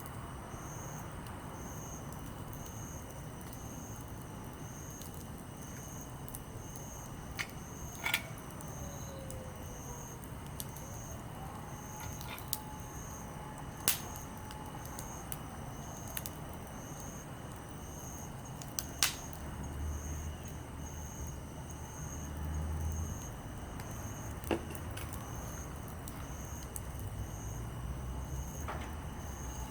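Small campfire of split conifer and hardwood firewood burning, with a steady low hiss and a few sharp, scattered pops from the wood. A high insect call pulses steadily about once a second behind it.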